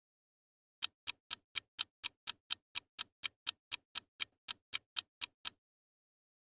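Clock ticking sound effect, about twenty even ticks at roughly four a second, used as the quiz's countdown while players guess; it stops about a second before the end.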